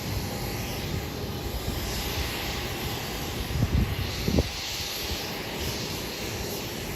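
Jet airliner engines running at the airport, a steady rushing noise.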